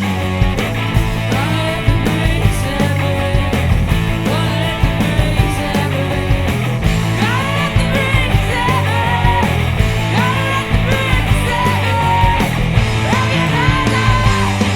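Rock band playing a loud, full-band passage. A lead melody of bending, sliding notes comes in about halfway through.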